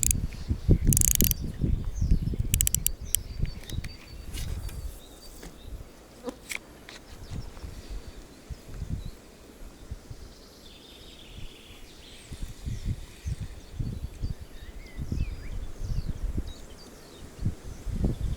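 Wind gusting on the microphone in uneven low rumbles, with birds chirping and insects faintly behind it. A few sharp clicks come about two to three seconds in.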